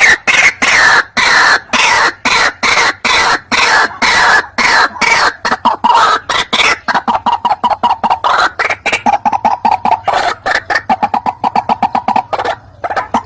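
White-breasted waterhen calling: a long, loud run of harsh, croaking notes repeated a few times a second, quickening into a faster run of shorter notes about halfway through, with a brief break near the end.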